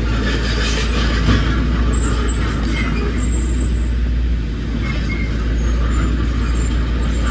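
Heavy diesel earthmoving machinery running steadily, a deep, even engine noise without pauses.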